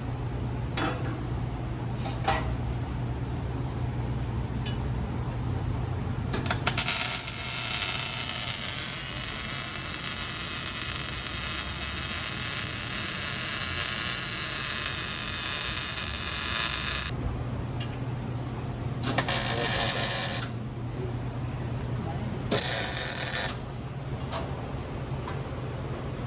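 Power cutoff wheel cutting through the steel exhaust pipe to remove the resonators: one long cut of about ten seconds with a shrill whine that wavers under load, then two short bursts of cutting, over a steady low shop hum.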